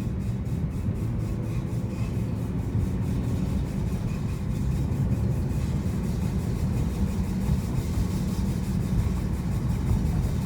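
Loud grinding and rubbing from a 2015 Honda Civic Si as it rolls, the noise that started after a brake change. A rapid, even pulse runs through the grinding and fades out about halfway.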